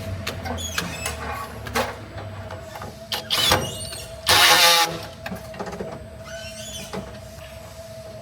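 Factory workshop machinery: a steady hum with scattered metallic clicks and knocks, and a loud burst of noise lasting about half a second a little over four seconds in.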